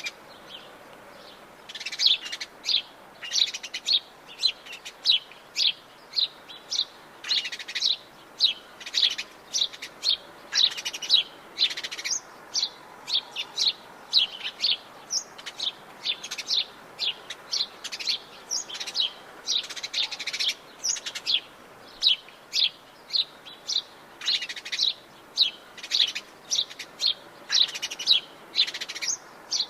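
Birds in the Atlantic Forest chirping, with many short, sharp high calls coming quickly in clusters, over a faint steady background hiss.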